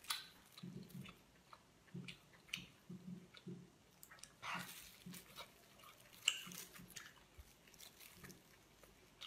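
A person chewing cooked lobster meat with the mouth closed: faint, steady, soft chewing strokes with a few sharper wet clicks.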